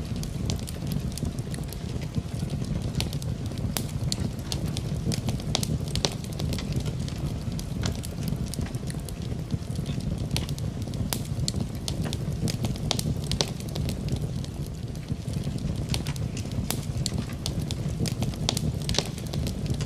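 Wood fire in a fireplace crackling, with frequent sharp pops scattered irregularly, over a steady background of rain.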